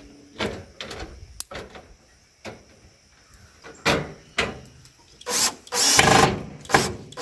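Gazebo frame crossbar being worked into its groove: a run of short scraping and rattling bursts with a few sharp clicks, the longest and loudest about five to six seconds in.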